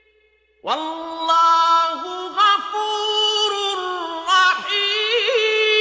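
A man's melodic Quran recitation, chanted with long held notes and gliding pitch, with a quavering ornament about five seconds in. It begins after a short pause of near silence.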